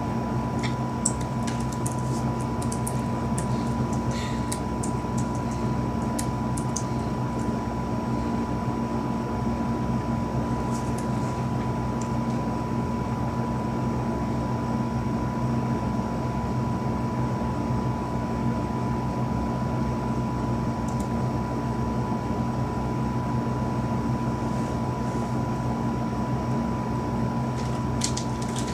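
Long freight train of covered hopper cars rolling past, heard through window glass as a steady low rumble and hum with a faint steady whine above it. A few faint ticks in the first few seconds.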